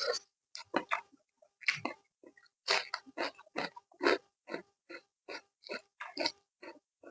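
Close-miked wet chewing and lip-smacking while eating spicy chicken, at a steady pace of about three chews a second.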